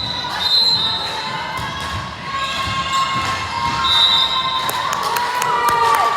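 Basketball game in a gym: the ball bouncing on the hardwood floor and sneakers squeaking, with crowd voices echoing in the hall.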